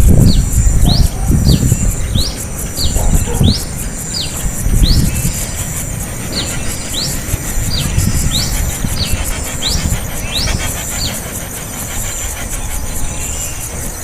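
Small bird chirping repeatedly: short, sharp notes, some rising and some falling, about two a second, stopping about eleven seconds in. A low rumble runs underneath, loudest in the first few seconds, with a steady high buzz behind it.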